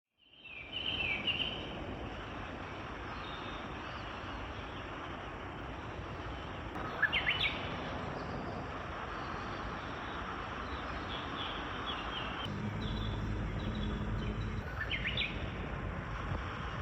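Songbirds singing in the forest: short chirping phrases about a second in, again around seven seconds in, and near the end, over a steady hiss of woodland ambience. A low rumble joins about twelve seconds in.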